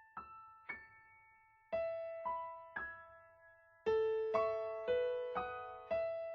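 Solo piano introduction to a slow, gentle song: single notes one after another, then fuller chords from about four seconds in.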